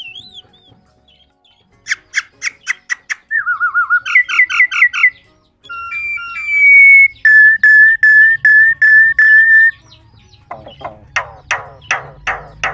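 Common myna whistling and chirping: a quick run of sharp notes, then a warbling phrase, then a string of clear, evenly repeated whistled notes, and from about two-thirds of the way in a fast series of harsher chirps.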